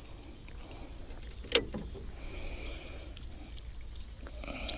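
Handling sounds in a small jon boat while a crappie is reeled in, over a steady low rumble. One sharp knock comes about a second and a half in, with a few faint ticks after it.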